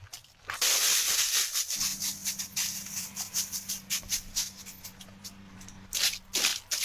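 Dry leaves and twigs rustling and crackling as they are handled, with a burst of loud rustling about half a second in. A steady low hum runs through the middle for about four seconds.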